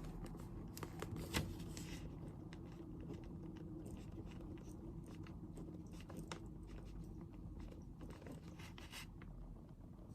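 Pen scratching on paper in short bursts of strokes, a few seconds apart, over a steady low room hum.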